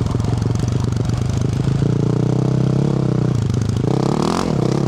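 Yamaha YZ450F's single-cylinder four-stroke engine through a Yoshimura RS-12 exhaust, chugging at low revs, then pulling steadily from about two seconds in. Near the end it revs up quickly and drops off again.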